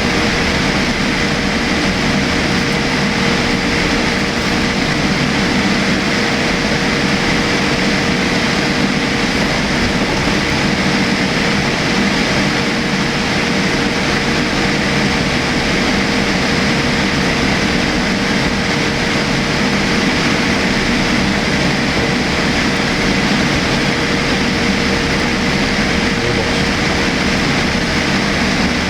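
Boeing 787-8 cabin noise in flight: a steady, loud rush of airflow and engine noise, with an unchanging hum.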